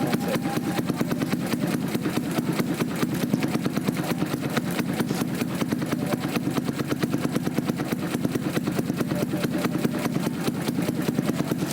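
Yamaha New Jupiter MX's single-cylinder four-stroke engine, bored out to 177cc, idling steadily through a DX Generation Sphere Oval Half Blue aftermarket racing exhaust, with an even, rapid pulse and no revving.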